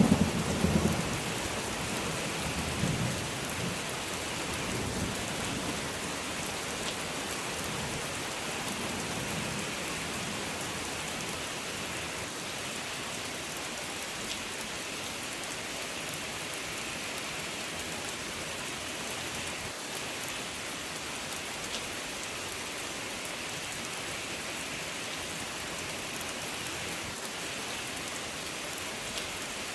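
Steady rain falling on a surface. The tail of a thunderclap rumbles away and fades over the first few seconds.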